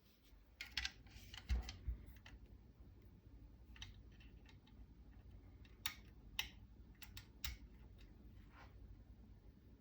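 Faint, scattered clicks and light metal knocks of hand tools and hardware being worked on a rifle's rail and receiver extension while screws are tightened, with a cluster of clicks in the first two seconds and another a few seconds later.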